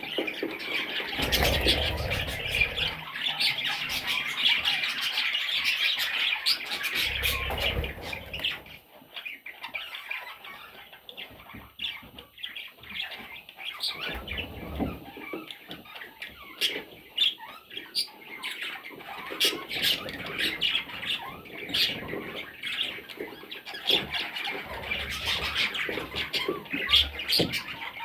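Budgerigar chicks calling in a dense, raspy chatter for the first several seconds, thinning to scattered short calls, then thickening again near the end, with a few low bumps.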